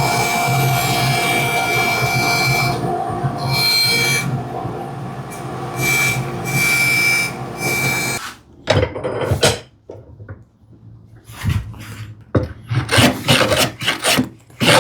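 Bandsaw running and ripping a board, a steady hum and whine that dips and returns a few times before stopping abruptly. It is followed by a series of hand-plane strokes shaving the wood.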